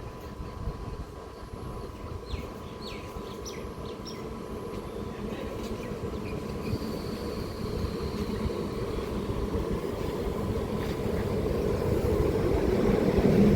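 Train approaching on the rails, its low rumble growing steadily louder until it is loudest near the end. A few short high chirps sound in the first few seconds.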